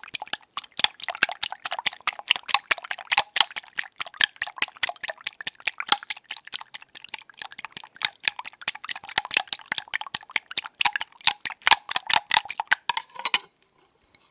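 ASMR egg-beating trigger: rapid wet, clicking stirring strokes close to the microphone, several a second, stopping abruptly about a second before the end.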